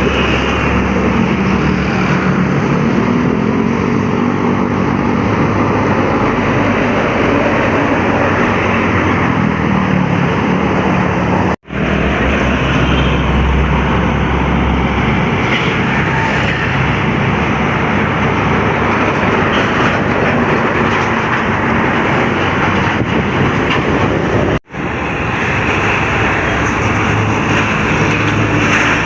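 Heavy trucks driving past on a highway: steady engine drone and tyre noise, the engine pitch bending as they pass. The sound cuts out abruptly twice, once about twelve seconds in and again about twenty-five seconds in.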